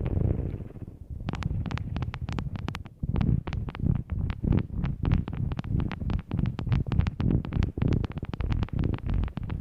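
ASMR object tapping: quick sharp taps and clicks, several a second, each with a low thud beneath. A low rumbling sound fades out in the first second before the tapping begins.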